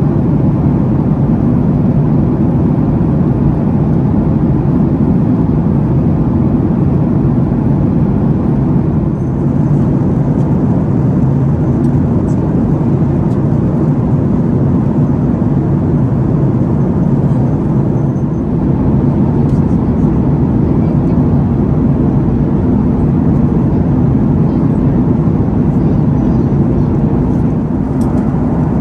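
Boeing 737-800 cabin at cruise: the steady, low roar of the CFM56 engines and airflow over the fuselage, unchanging throughout.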